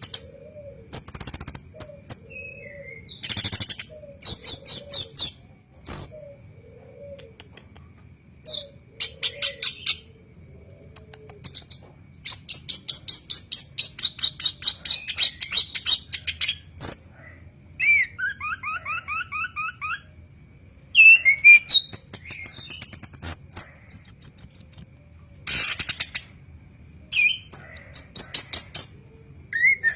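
Chestnut-capped thrush (anis kembang) singing a loud, varied song: phrases of rapid repeated notes and fast trills, high whistled slurs, broken by brief pauses.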